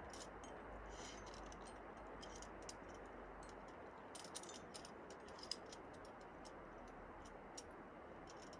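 Faint, irregular light clicks and ticks over a steady low hiss, loudest about five and a half seconds in.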